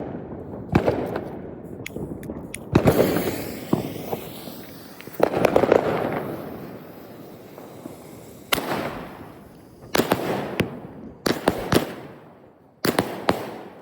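Fireworks going off: a string of sharp bangs, one every second or two, each trailing off in a rumbling echo.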